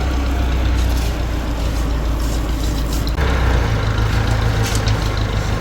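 Engine of the concrete-pouring machinery running steadily, its note stepping up abruptly about three seconds in.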